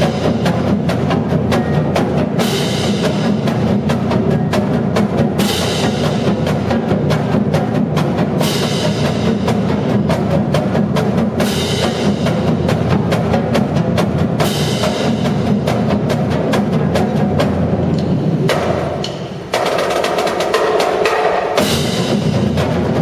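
Marching drumline playing: fast, dense snare and tenor drum strokes over bass drums, with cymbal crashes about every three seconds. The playing briefly drops off about nineteen seconds in, then comes back loud.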